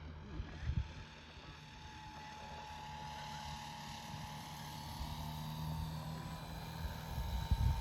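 Hacker A200 brushless electric motor and propeller of a large-scale Cessna Skylane model plane running in flight: a steady whine whose pitch drifts slightly, over low rumble with a few low thumps near the start and near the end.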